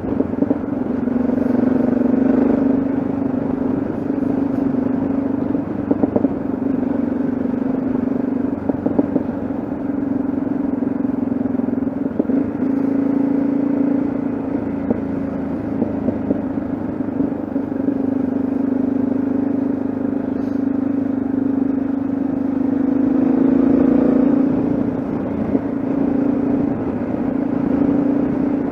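Yamaha XT660Z Ténéré's single-cylinder four-stroke engine running steadily under way, a constant drone with a brief change in pitch near the start and again near the end.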